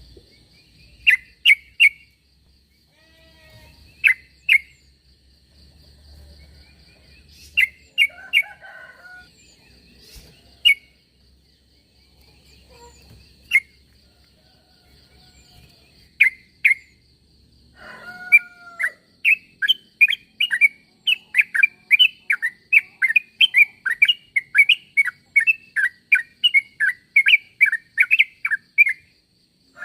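Yellow-vented bulbul (trucukan) calling: short bright chirps, scattered singly and in pairs at first, then past the middle a fast unbroken run of chirps at about three a second. A faint steady high-pitched tone runs underneath.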